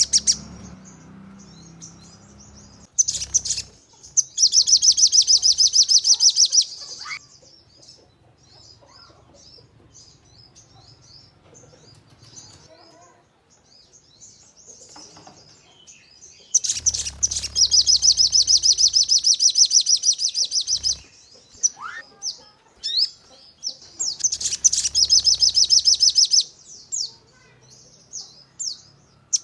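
Sogon songbird singing 'nembak': three long, very rapid, high-pitched machine-gun trills, with softer scattered chirps and a few short rising whistles in the pauses between them.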